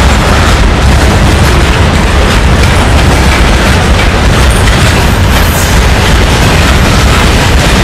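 Freight wagons rolling past close by: a loud, steady rumble of steel wheels on rails, deepest in the low end.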